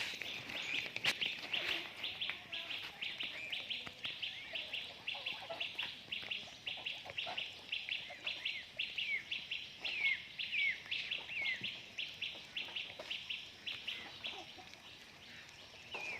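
Birds peeping in a fast, even series of high, thin calls, about three a second. Past the middle the calls become chirps that slide down in pitch, and they stop shortly before the end.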